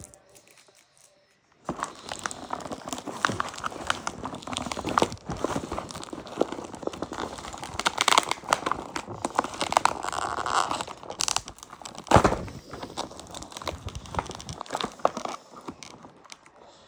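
Plastic and cardboard toy packaging crinkling and rustling with many small crackles and clicks, starting about two seconds in, as the toy is worked out of its taped box.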